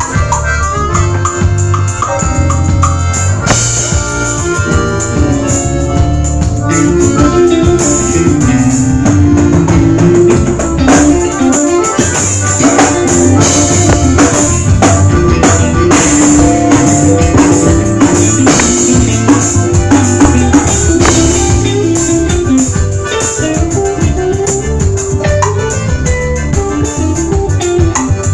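Live band playing instrumental music at a sound check: drum kit and shaker-type percussion keep a steady beat under a melody line.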